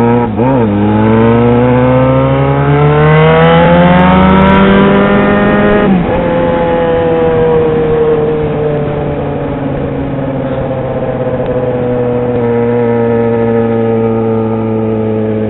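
Yamaha XJ6 motorcycle's inline-four engine under way. The engine pitch climbs steadily under acceleration, falls sharply at a gear change about six seconds in, then slowly sinks and settles into a steady run.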